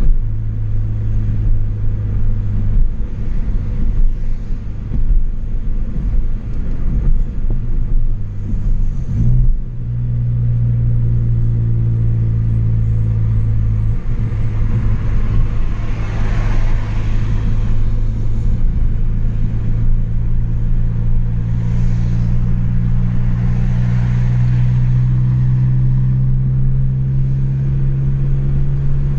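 Chevrolet Astra 2.0 four-cylinder with a straight-through exhaust, no muffler, heard on the move. It gives an uneven, burbling drone at first, a quick blip about nine seconds in, then a steady deep drone whose pitch slowly climbs as the revs build.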